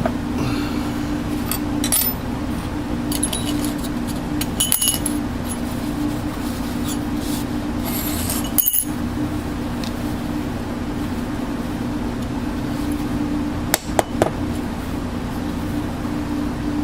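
A steady machine hum with scattered light metallic clinks and taps, a few sharp taps standing out near the end.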